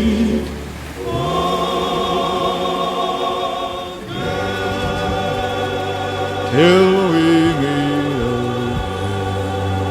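Background music: a choir singing long, held chords that change twice, with one voice swooping up and stepping back down in the second half.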